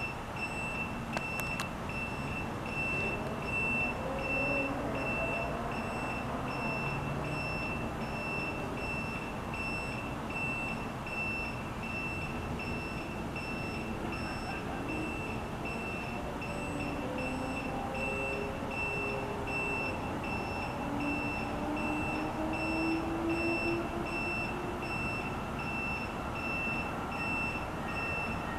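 Low rumble of an electric passenger train approaching from a distance, with faint slowly rising tones. Through it a high electronic beep pulses on and off steadily.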